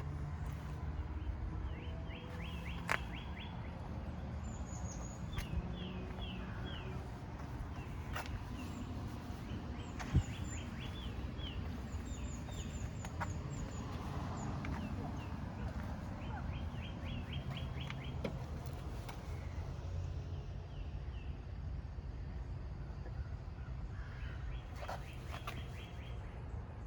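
Birds calling in quick runs of short repeated chirps, several times over, with a steady low rumble underneath and a few sharp clicks.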